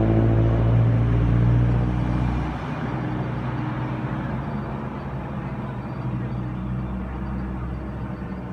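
Sydney Trains Waratah A-set electric train moving off, its traction motors humming loudly, then dropping away about two and a half seconds in and fading as the train leaves.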